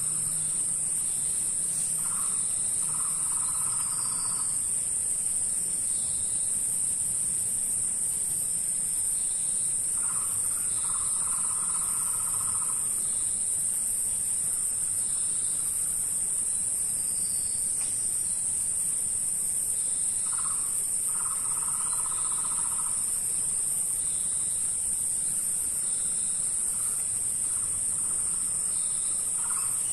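Tropical rainforest insect chorus, a steady high-pitched drone throughout. Over it, a low pulsing animal call repeats about every nine seconds, each time a short note followed by a longer pulsed phrase, with faint higher calls in between.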